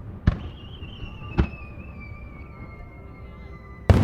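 Firework shells bursting: three sharp booms, the loudest near the end. Under them, a high sustained tone falls slowly in pitch, which is likely the music accompanying the display.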